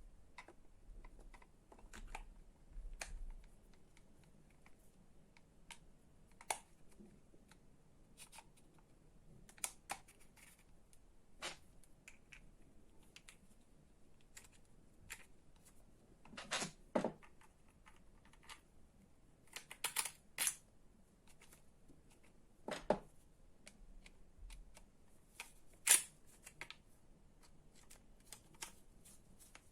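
Irregular small clicks and taps of plastic and metal parts being handled and fitted together while an electric string trimmer's motor and housing are reassembled, with a handful of sharper knocks in the second half.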